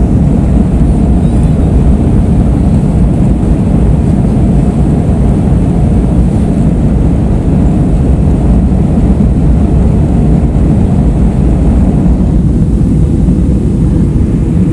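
Steady low-pitched cabin noise of an airliner in flight, the engine and airflow drone heard from inside the passenger cabin.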